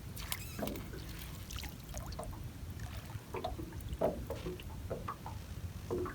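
Gill net being hauled in by hand, water dripping and trickling off the mesh, with scattered small splashes and knocks.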